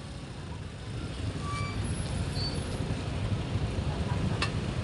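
Low, steady rumble of motor traffic, growing a little louder after about a second, with a sharp click near the end.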